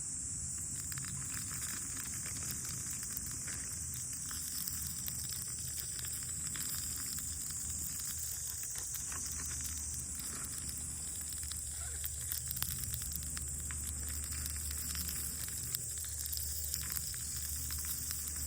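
Wood campfire crackling with many small irregular pops over a steady high sizzling hiss.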